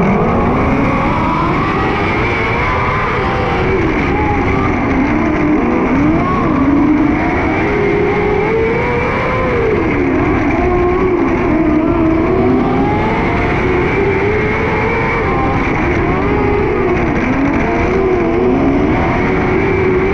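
600cc micro sprint car's motorcycle engine running hard in a race, its revs rising and falling every couple of seconds.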